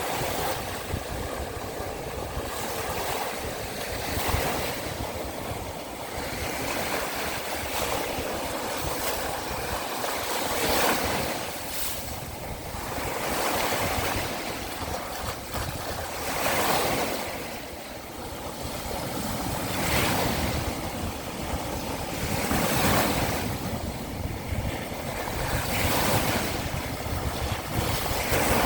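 Small sea waves breaking and washing on the Sea of Azov shore, a swell of surf every two to three seconds.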